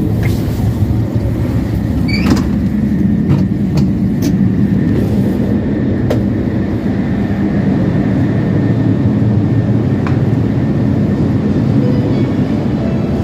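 Sanyo Shinkansen train running at speed, heard from inside the car: a loud, steady low rumble with several sharp clicks and knocks scattered through it.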